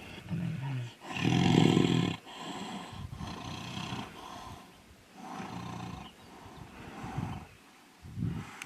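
Two male tigers fighting, giving a series of roars and snarling growls, the loudest and longest about a second in, followed by several shorter bursts.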